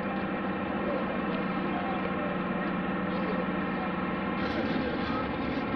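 Aircraft engine running with a steady drone made of several held tones, the lowest one easing off a little past the middle.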